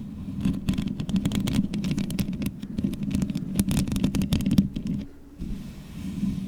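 Long fingernails scratching and rubbing directly on a microphone: a dense run of scratchy clicks over a deep rumble. It eases off about five seconds in, then resumes as a softer, steadier rubbing.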